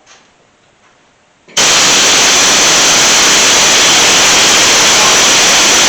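Loud, steady white-noise hiss like static that starts abruptly about a second and a half in and holds an even level.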